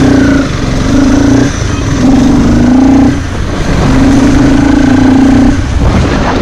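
Motorcycle engine running under load as the bike rides off. Its strong steady note drops away briefly four times between stretches of pull.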